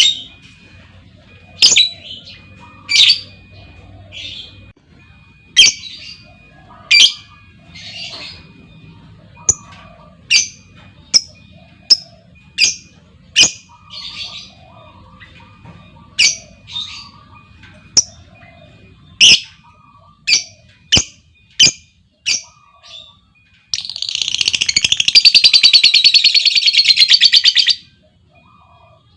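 Lovebirds giving sharp, short chirps spaced about half a second to a second apart. Near the end one breaks into a loud, rapid rattling trill lasting about four seconds: the long 'ngekek' chatter of a lovebird in breeding condition.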